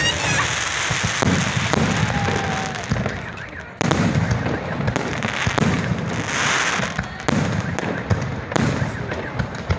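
Aerial fireworks bursting in a rapid, irregular series of bangs over continuous crackling, with a sudden loud burst about four seconds in.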